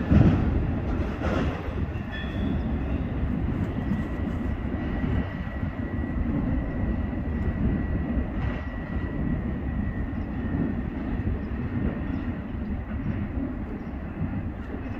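Freight train cars rolling past on the rails with a steady rumble and a loud jolt right at the start. A thin, high steady tone rides over the rumble from about two seconds in and fades out a few seconds before the end.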